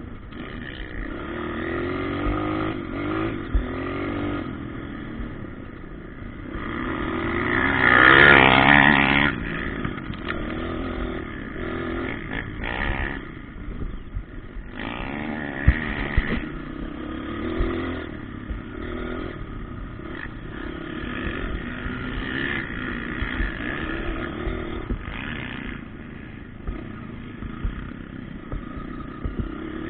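Motocross bikes revving up and down as they ride the track, the engine pitch rising and falling. One bike passes close about eight seconds in, the loudest moment, its pitch dropping as it goes by.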